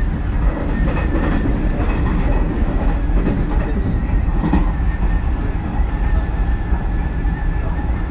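Running sound inside a Hanshin 9000-series electric train car under way: a steady rumble of wheels on rail with a few rail-joint clacks and a steady high tone.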